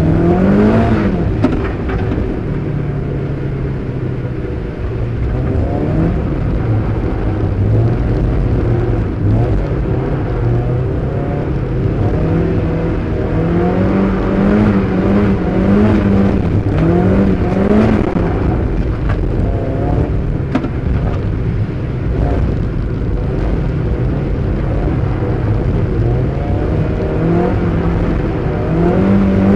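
Mazda MX-5 (Eunos Roadster) inline-four engine revving up and dropping back again and again as the car is driven through drifts, heard from inside the cabin.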